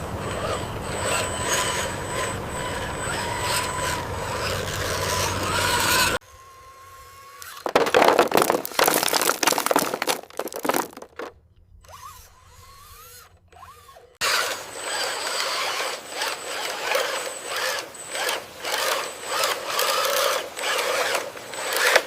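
Small electric motors and gearboxes of toy RC construction vehicles whining and grinding, in separate clips joined by abrupt cuts. There is a quieter stretch with a few loud bursts in the middle.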